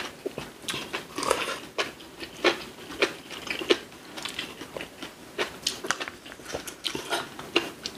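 People eating: chewing and biting with many small, irregular clicks and crunches.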